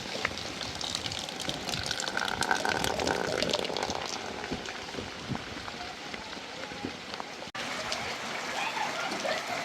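Heavy rain falling steadily, with many sharp little drop impacts, and a brief break about three-quarters through.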